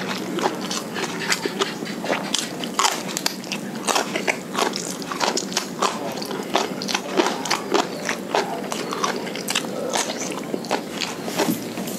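Close-miked chewing of a mouthful of shrimp-paste fried rice and raw papaya leaves, a quick, irregular run of wet mouth clicks.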